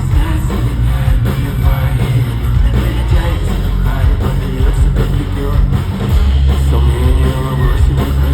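Rock music with singing over electric guitar and a heavy bass and drum low end.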